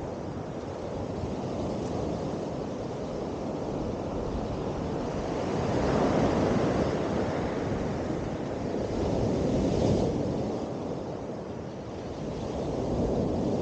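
Sea waves breaking and washing in, a steady rushing that swells about every four seconds, with wind buffeting the microphone.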